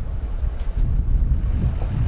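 Strong wind buffeting the microphone in a blizzard: a loud, gusty low rumble that rises and falls unevenly.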